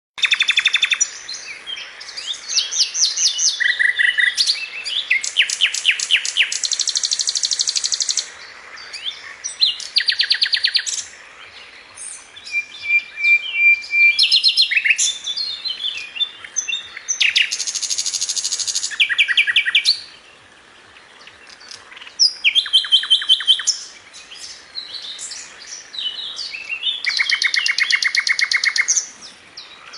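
A songbird singing a long, varied song: loud phrases of rapid trills and quickly repeated notes, each lasting a second or two, with short pauses between them.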